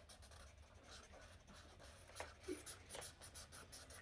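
Markers scratching faintly across coloring-book paper, with a couple of soft taps about two and three seconds in.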